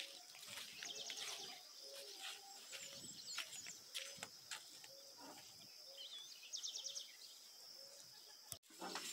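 Faint birdsong: scattered chirps and two quick high trills, over a short low note that repeats every half second or so. The sound drops out abruptly for a moment near the end.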